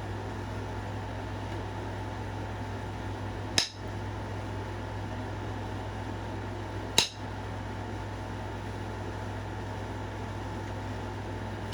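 Flintknapping by indirect percussion: a punch set on the edge of the stone is struck, giving two sharp clicks about three and a half seconds apart, with a third right at the end. A steady low hum runs underneath.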